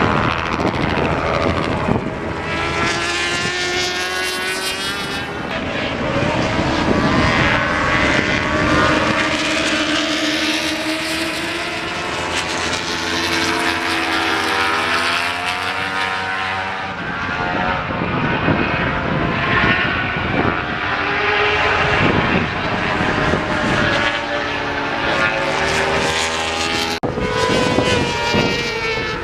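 Racing superbikes' engines revving hard as several bikes pass on the circuit, their pitch repeatedly climbing and dropping and overlapping; the sound changes abruptly about 27 seconds in.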